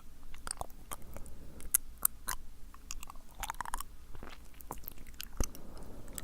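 Close-miked wet mouth sounds: irregular sticky tongue clicks and lip smacks, a few sharper pops among them.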